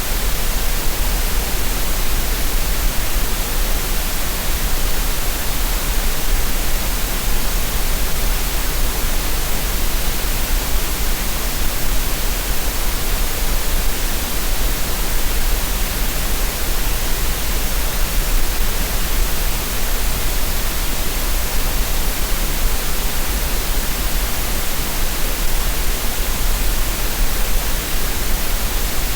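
Steady synthetic green noise: a continuous, even hiss that does not change, with a deep rumble at the very bottom.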